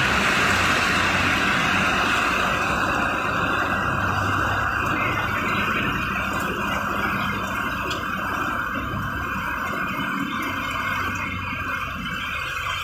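Steady rush of heavy rain and tyre spray from inside a moving vehicle, over a low engine hum. The hiss thins a little after the first couple of seconds.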